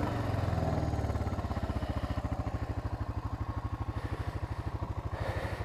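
ATV engine idling with an even, steady pulse. The idle eases a little lower in the first couple of seconds, then holds.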